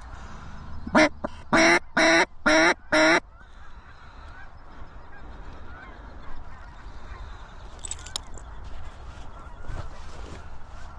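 Five loud goose honks in quick succession, then many faint short calls from distant waterfowl over a low rumble.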